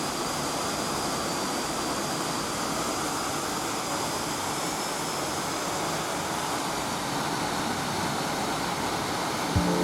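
Steady rushing noise of typhoon wind and rain.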